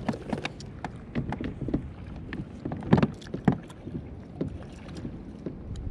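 Irregular knocks, taps and clicks of gear being handled on a plastic fishing kayak, two sharper knocks about halfway through, over low water and wind noise.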